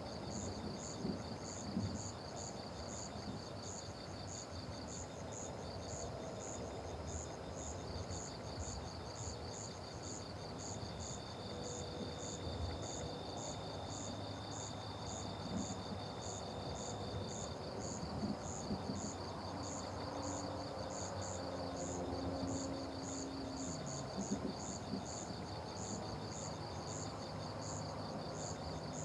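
Night insects chirping in chorus: one high chirp repeats about twice a second over a fast, continuous trill, and a steady buzz joins for several seconds in the middle. A low background murmur runs underneath.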